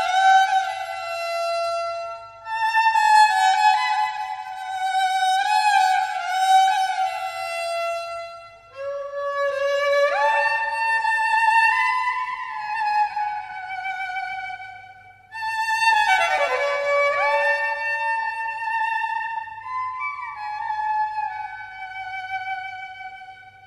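Background music: a solo violin playing a slow melody in phrases, with notes that slide up and down in pitch.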